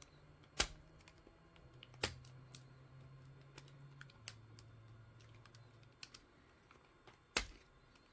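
3D-printed plastic support material snapping and cracking as it is pried off a printed part by hand: several sharp cracks with lighter ticks between them.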